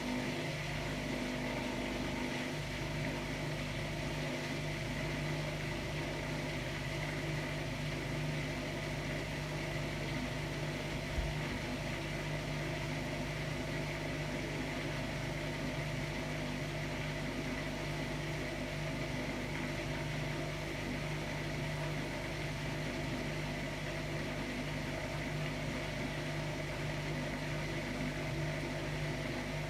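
Hotpoint-Ariston Aqualtis AQD972F washer-dryer running with a steady, even hum and a few steady tones, and one short click about eleven seconds in.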